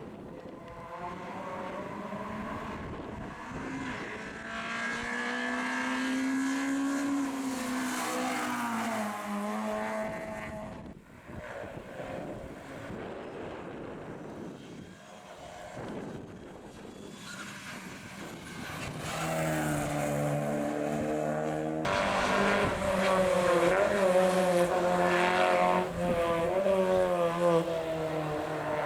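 Rally cars at full throttle on a closed stage. One car's engine climbs through the revs and falls away as it goes past. After a quieter lull, another car comes through accelerating hard, loudest near the end.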